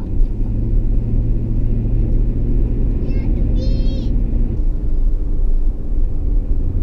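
Truck driving on a mountain road, heard from inside the cab: a steady low drone of engine and tyre noise whose engine note drops about four and a half seconds in. A brief high-pitched squeak sounds a little past the middle.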